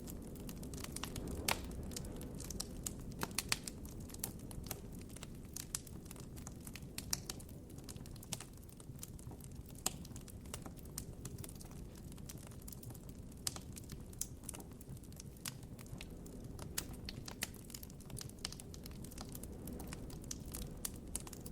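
Wood campfire crackling: irregular sharp pops and snaps, several a second, over a steady low rumble, with a few louder pops in the first few seconds.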